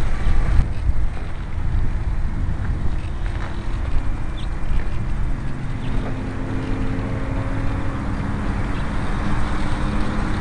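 Gusty wind buffeting the microphone. A faint steady hum from the micro RC airplane's motor and propeller comes in from about six seconds in.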